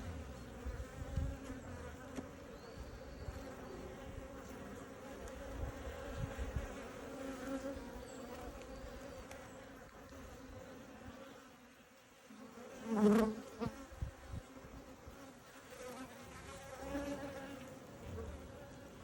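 Honeybees buzzing around an open hive: a steady, even hum with a few low knocks, and one louder burst of buzzing about thirteen seconds in.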